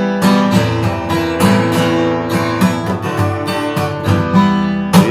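Acoustic guitar strummed in a steady rhythm: an instrumental passage of chords with no singing.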